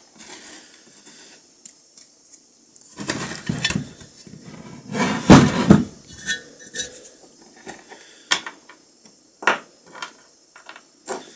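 Steel parts of an antique iron clinking and clanking as it is taken apart by hand: scattered light knocks, a busier clatter about three seconds in, and the loudest clank about five seconds in.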